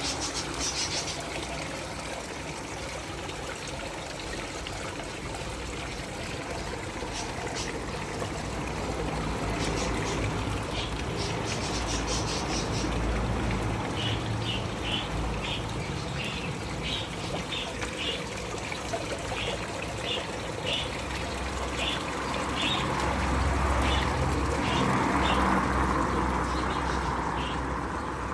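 Water trickling steadily, with short bird chirps repeating over it for a stretch through the middle. A low rumble swells near the end.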